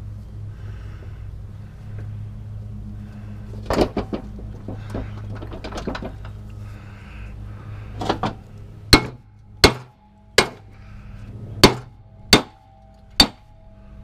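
Hammer blows on a mower deck spindle, knocking it apart to get at its worn bearings: about seven sharp, evenly spaced metal strikes in the second half, each leaving a short ring. Before them come a few lighter metal clanks, with a steady low hum throughout.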